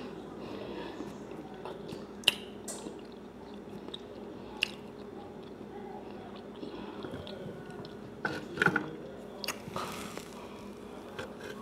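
Close-miked chewing of a mouthful of country fried steak with gravy, with a few sharp wet mouth clicks, then a cluster of sharper clicks and knocks about eight seconds in. A faint steady hum runs underneath.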